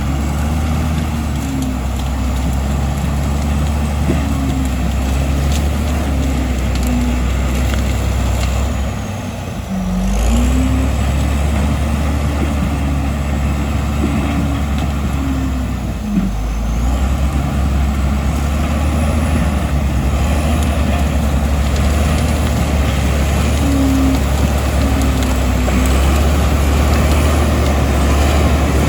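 Komatsu D65E bulldozer's diesel engine running steadily while working. The engine sound dips briefly about nine seconds in and again about sixteen seconds in, with a faint, wavering high whine above it.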